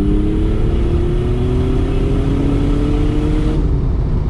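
Mitsubishi 3000GT VR4's twin-turbo V6 pulling hard under acceleration, heard from inside the cabin. Its note climbs steadily through the gear, then drops away about three and a half seconds in.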